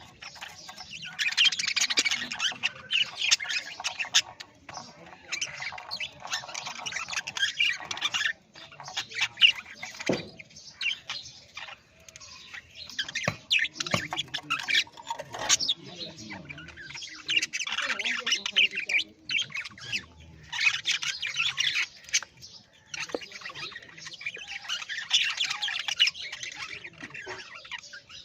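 Parrots squawking and chattering in repeated harsh bursts, with brief pauses between the clusters of calls.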